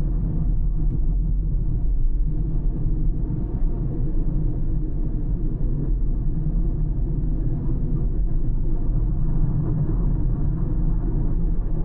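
A car driving along a road, with a steady low rumble of tyre and engine noise.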